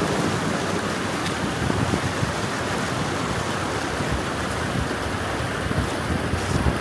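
Water rushing steadily through a cut in a beaver dam.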